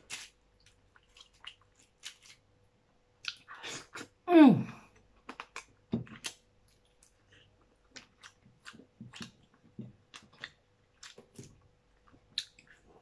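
Close-up mouth sounds of a person eating spicy crab: irregular wet chewing clicks and smacks. About four seconds in there is a short vocal sound that falls in pitch.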